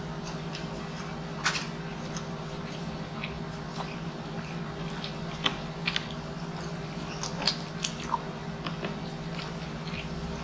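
A person chewing food with mouth sounds, several sharp smacking clicks scattered through, over a steady low hum.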